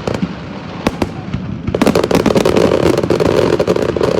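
Fireworks going off: a few separate bangs, then from about two seconds in a dense, rapid crackle of many small reports.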